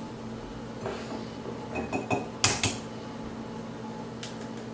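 Dishes and utensils being handled on a kitchen counter: a few scattered light knocks and clinks, the sharpest about halfway through, over a steady low hum.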